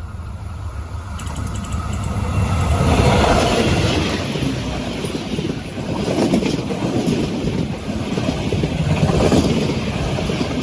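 A train passing close by on the tracks. Its rolling noise builds over the first three seconds, then stays loud, swelling about every three seconds.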